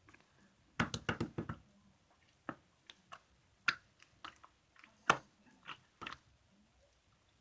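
Opaque glitter slime being pressed and stretched by hand, making sharp sticky clicks and pops: a quick flurry about a second in, then single pops about once a second.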